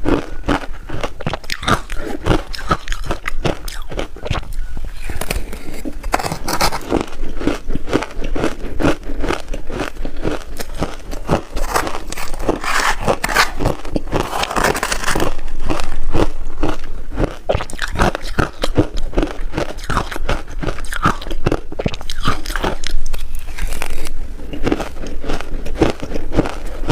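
Close-miked biting and crunching of ice, a dense run of sharp cracks and crackles as it is chewed, heaviest a little past the middle.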